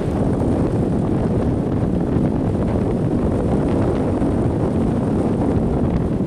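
Strong onshore wind buffeting the microphone: a steady, loud low rumble with no pauses.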